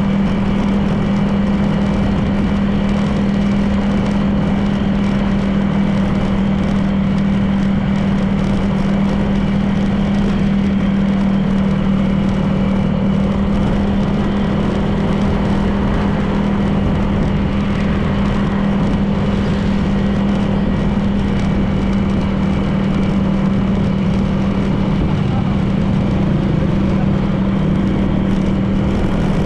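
Honda PCX 160 scooter's single-cylinder engine running at a steady cruising speed, a constant low hum over a rush of road noise.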